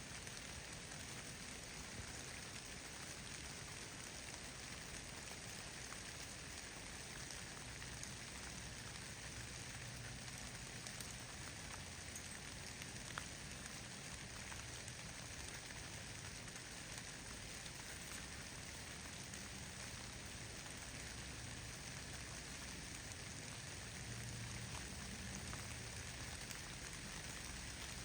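Falling snow in a snowstorm pattering steadily on leaves and gear: an even hiss with a few faint ticks.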